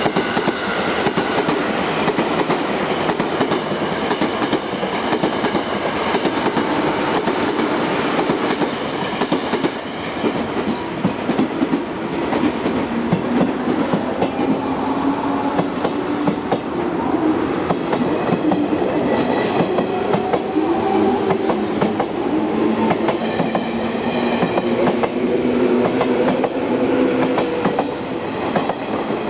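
Electric commuter train running, wheels clattering steadily over rail joints under a motor hum that glides up and down in pitch.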